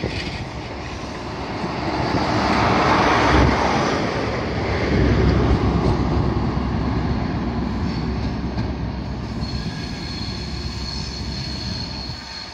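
High Speed Train (InterCity 125) running past and pulling away: the coaches rumble by, the rear Class 43 diesel power car is loudest about five seconds in, and the sound then fades as it draws away. A thin high-pitched wheel squeal sets in near the end.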